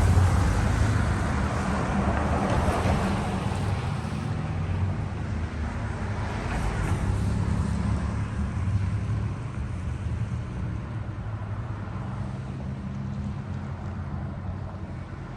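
Road traffic: a steady low engine hum with a rushing hiss of tyres, slowly fading away.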